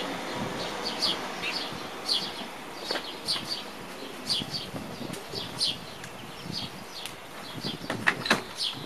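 Small birds chirping, short high falling notes repeated about twice a second, over a faint low background noise. A couple of sharp knocks come near the end.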